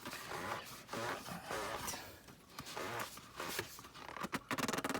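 BMW oil filter being screwed on by hand, with scraping and rubbing of the parts being threaded together and a quick run of sharp clicks near the end.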